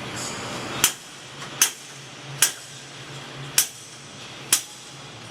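Hammer blows driving a part through during a landing gear change: five sharp strikes, roughly a second apart, over a low steady hum.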